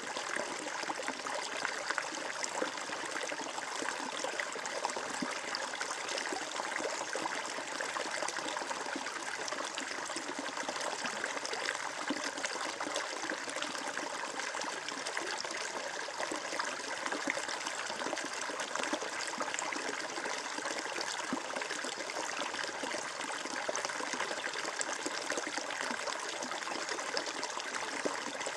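Flowing water running steadily, an even trickling rush that neither pauses nor changes.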